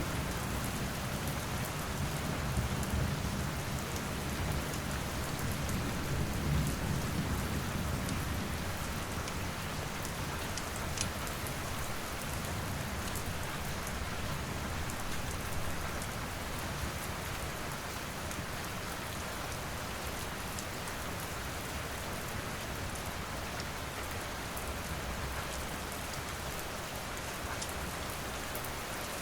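Steady rain falling, with a low rumble of thunder through the first several seconds that dies away. Scattered small crackles and pops of a wood fire sound over the rain.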